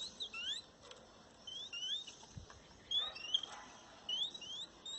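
Small birds at a garden feeding spot giving short, rising chirps, often two in quick succession, about once a second, fairly faint.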